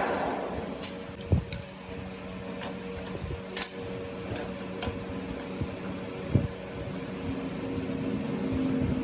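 A workshop machine running with a steady hum, with scattered light metallic clicks and knocks, one sharper tick near the middle.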